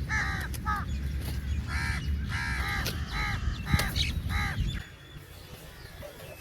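Crows cawing: about eight short, harsh caws in quick succession, stopping a little before the end, over a low rumble.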